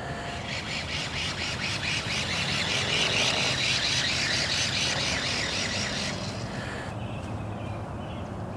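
Toy remote-control monster truck's small electric motor and gearbox whirring as it drives, a fast buzzing rattle that swells in the middle and cuts off suddenly about six seconds in.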